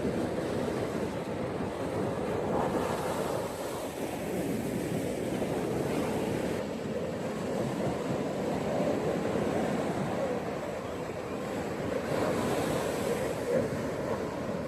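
Ocean surf breaking and washing on a beach, a continuous rushing wash that swells and eases every few seconds, with some wind noise.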